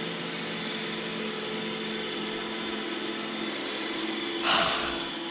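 iRobot Roomba E6 robot vacuum running steadily, its motor and brushes giving an even whine over a low hum as it cycles over the same patch of floor. A brief louder burst of noise comes near the end.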